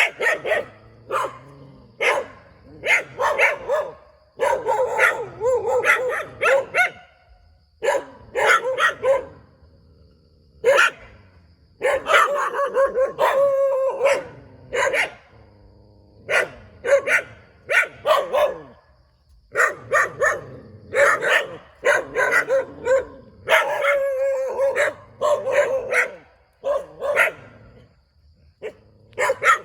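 A dog barking over and over in runs of short barks, with brief pauses between the runs.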